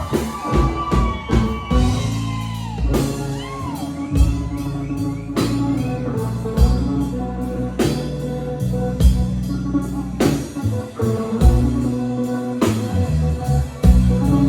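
Live band playing a slow, blues-style instrumental break: a lead guitar bending notes over bass and a steady drum kit beat.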